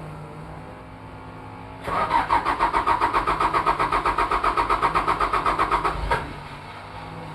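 Toyota 2L-T turbo-diesel being cranked over on the starter motor for a cold start: a rhythmic churning of about seven compression pulses a second for about four seconds, which stops abruptly without the engine catching. A low steady hum lies underneath before and after.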